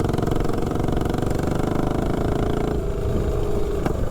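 Tillotson 212 single-cylinder engine on a mini bike running steadily on nitro RC fuel. Its 140 main jet is judged too small, leaving it lean at the top end.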